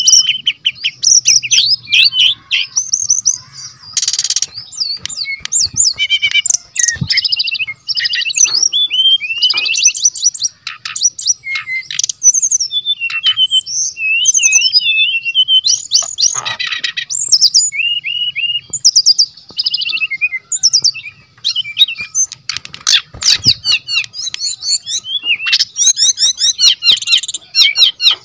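Brown-chested jungle flycatcher singing vigorously: a fast, nonstop run of varied chirps, trills and sliding whistles.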